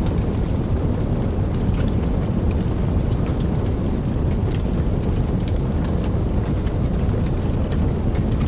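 Campfire burning: a steady low rumble of flames with many small, scattered crackles and pops.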